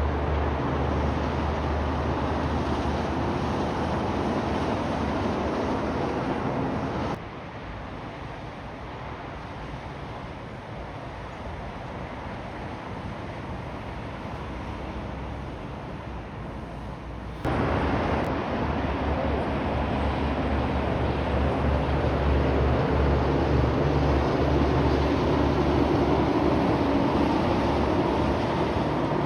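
Heavy semi-trailer trucks driving past, a deep engine and tyre rumble. The sound drops suddenly about seven seconds in to quieter road noise, then jumps back loud about ten seconds later and swells as another truck passes.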